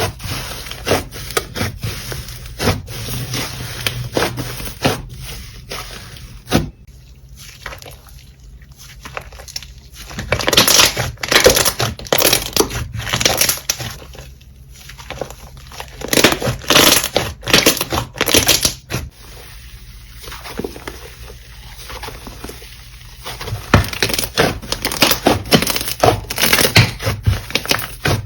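Slime being squeezed and pressed by hand, giving bursts of crackling clicks and pops, with quieter stretches in between.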